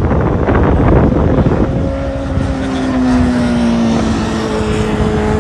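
Wind buffeting the microphone, then a motor vehicle's engine comes up as a steady drone that slowly falls in pitch.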